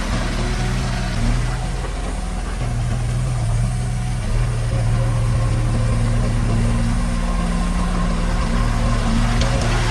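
Diesel engine of heavy earthmoving equipment running with a steady low drone. The hum eases slightly about two seconds in and again near seven and a half seconds.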